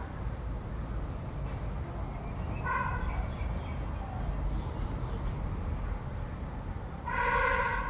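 An animal calling twice, a short pitched call about three seconds in and a slightly longer one near the end, over a steady low background rumble.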